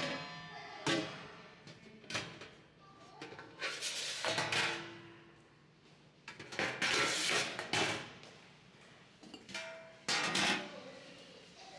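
Kitchen dishes and pots clattering and clanking, about half a dozen loud clanks that ring on briefly, over faint background music.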